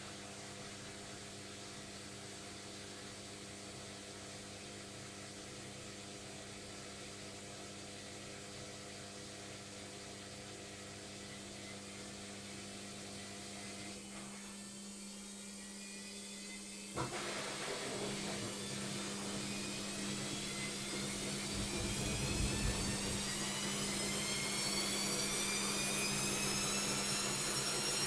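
Logik washing machine on its final spin: a steady motor hum, then a click about two-thirds through, and the motor's whine rises steadily in pitch as the drum speeds up.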